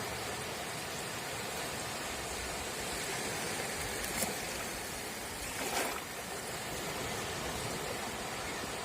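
Small sea waves washing steadily on a beach. A sharp click comes a little past four seconds in, and a brief splash-like swish about a second and a half later.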